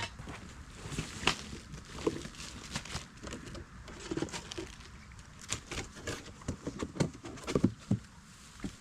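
Irregular rustling, crinkling and light knocks of a new inflatable rubber boat and its packaging being handled and unpacked.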